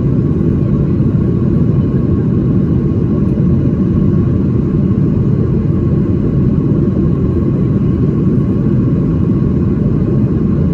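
Cabin noise inside a Boeing 737-800 in flight: a loud, steady low rumble from its CFM56-7B engines and the airflow over the fuselage, with a faint steady tone above it.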